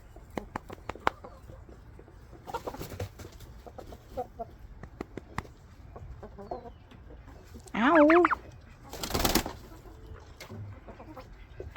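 Turkey giving one loud warbling call about two-thirds of the way in, followed by a short whooshing burst of noise; light clicks and scuffs come before it.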